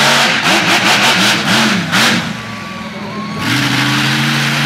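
An engine revving up and down in quick blips several times, with a loud rushing exhaust noise. It eases off briefly, then settles into a steadier run near the end.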